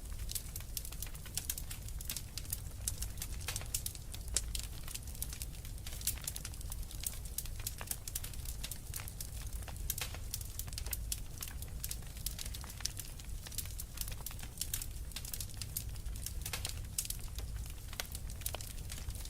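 Fireplace fire crackling: dense, irregular pops and snaps over a steady low rumble.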